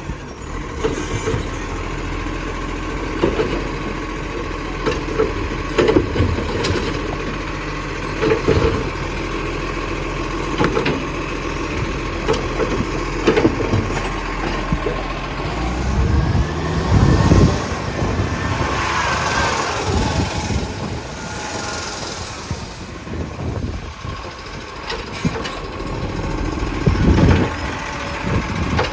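Garbage truck running steadily, with irregular knocks and clunks every few seconds and heavy thumps. A rising whine comes in about the middle.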